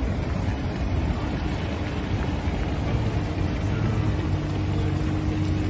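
A moving vehicle's driving noise: a steady dense rumble of engine and road, with a faint steady hum above it.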